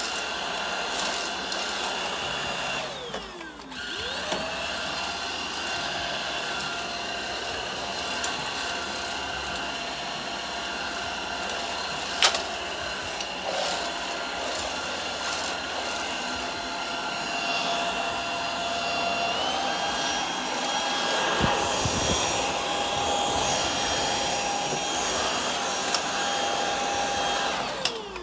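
HONiTURE cordless stick vacuum's motor running with a steady high whine. About three seconds in it winds down and spins back up. Later its whine steps up to a higher pitch, and it winds down near the end. A sharp click partway through.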